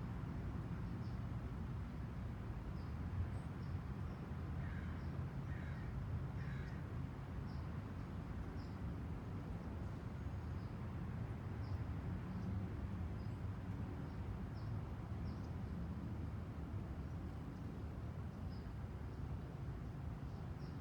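A crow cawing three times, about a second apart, a few seconds in. Short high chip notes from small birds repeat throughout over a steady low rumble.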